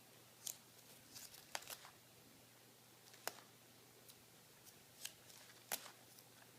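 Faint, scattered small clicks and ticks over a low steady room hum, about eight in all, at uneven intervals.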